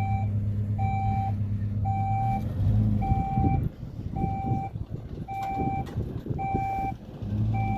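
Vehicle reversing alarm beeping about once a second, each beep about half a second long, over a running engine. The engine's steady hum drops away about three and a half seconds in, leaving a rougher rumble under the beeps.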